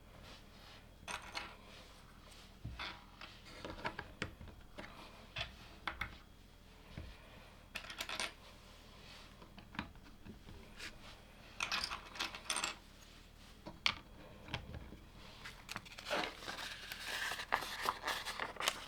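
Plastic LEGO pieces clicking and clattering as they are handled and pressed together, in short irregular bursts, with a longer stretch of rustling near the end.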